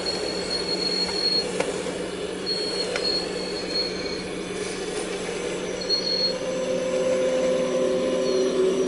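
Full-size excavator running as it digs hard pan: a steady engine and hydraulic hum whose whine grows stronger in the last few seconds, with a thin high metallic squeal that comes and goes several times.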